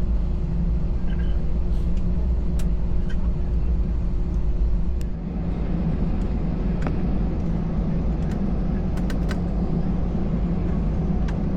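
Airbus A320 cabin noise while taxiing before takeoff: a steady jet-engine rumble with a faint hum and occasional small rattles and clicks. About five seconds in the hum drops out and the noise shifts to a broader rush.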